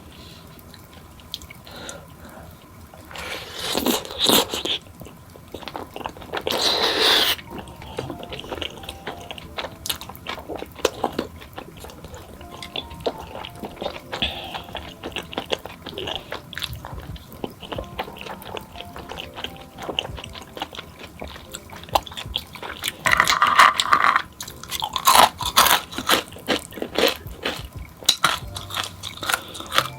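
A person eating close to the microphone: steady chewing with many small wet clicks, and several louder crunchy bites, a few seconds in, again soon after, and in a cluster near the end.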